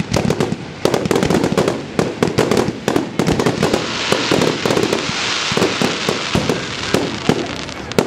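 Fireworks display going off: a dense, rapid run of bangs and pops, with a hissing crackle swelling near the middle.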